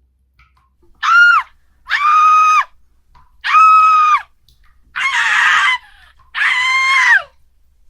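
Five loud, high, drawn-out cries about a second apart, each rising, holding, then dropping off; the fourth is rougher than the rest.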